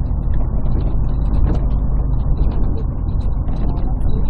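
Cabin sound of a Scania CN113CLL city bus running, its Scania DSC 11.71 diesel engine and Voith automatic gearbox droning steadily. The sound is muffled and bass-heavy because the phone's microphone is partly covered.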